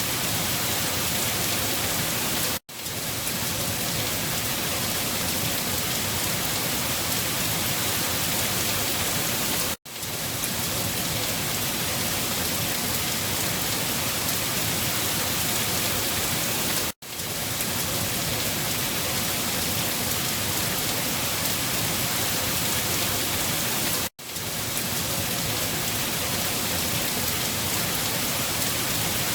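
Steady rain falling. About every seven seconds the sound cuts out for an instant and fades quickly back in, four times in all.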